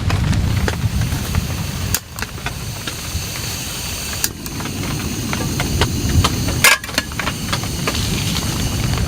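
Heavy rain falling steadily, with a deep low rumble under it and many scattered sharp drop taps. A louder sharp crack comes near the end.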